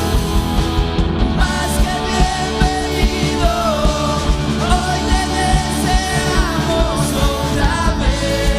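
Worship band music with a steady drum beat under sustained chords, and a melody, sung, from about a second and a half in.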